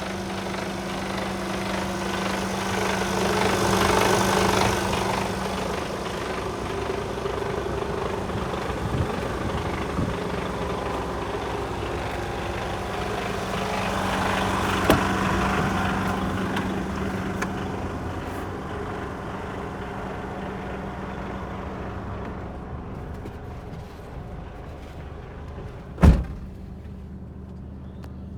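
Mercedes Actros 1840 truck's 400 bhp Euro 6 diesel engine running, its sound swelling twice and then easing off. Near the end comes a single loud knock.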